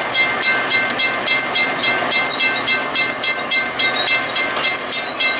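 Train sounds at a station: a Metra commuter train on the near track and an approaching CN freight locomotive. A rapid, even run of metallic clicks is heard, with steady high ringing tones above.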